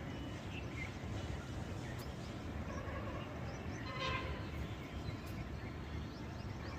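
Outdoor nature ambience: a steady low noise with scattered short animal chirps, and one longer animal call about four seconds in.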